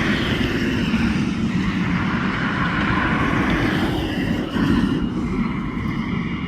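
Jet noise from a Gulfstream G450's twin Rolls-Royce Tay turbofans during takeoff: a steady, loud rush that eases slightly toward the end.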